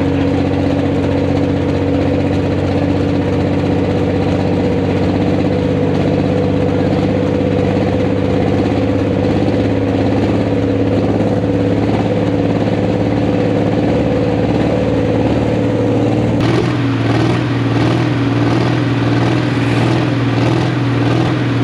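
A pulling tractor's engine runs steadily and loudly. About sixteen seconds in, a rising hiss joins it and the tone starts to waver.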